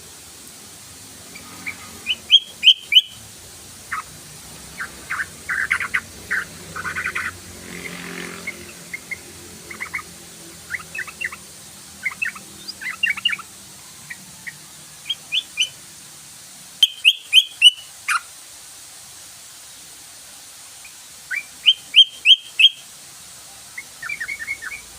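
Yellow-vented bulbul (trucukan) singing: loud, quick bubbly phrases of three or four notes every few seconds, with softer chattering notes in between.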